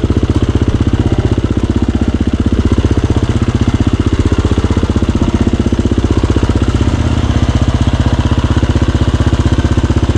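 KTM dirt bike engine running at low revs with an even, steady pulse as the bike creeps along, its pitch shifting slightly about seven seconds in.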